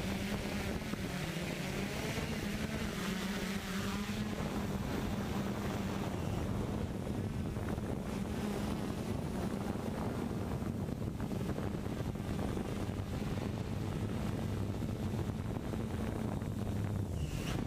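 Walkera drone's electric motors and propellers humming steadily in flight, with wind buffeting the microphone.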